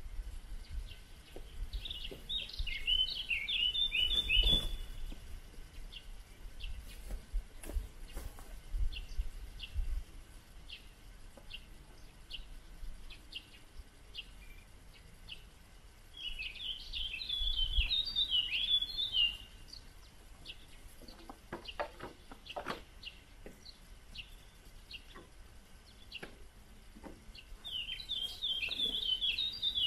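A songbird singing a short, quick phrase of falling notes three times, about twelve seconds apart, with single short chirps between the phrases.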